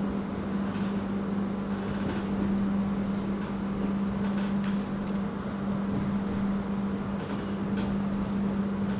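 Passenger train running, heard from inside the coach: a steady low hum over even rolling rumble, with a few faint irregular clicks.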